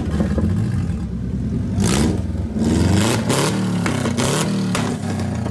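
Car engine revving hard, its pitch rising and falling several times, with about five sharp cracks from the exhaust.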